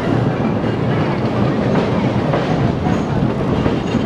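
Passenger train running along a wooden trestle: a steady rumble of wheels on the track with clickety-clack.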